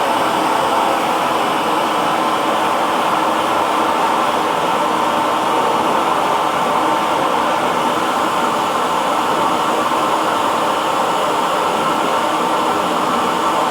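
Hair dryer running steadily, a constant blowing hiss with a faint motor hum underneath.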